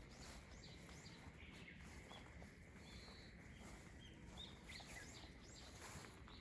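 Faint, scattered bird chirps over a low background rumble.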